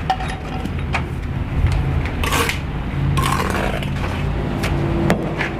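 Steel brick trowel working mortar: scraping and a few sharp clinks as mortar is cut and picked up, with a longer scrape about two and a half seconds in, over a steady low hum.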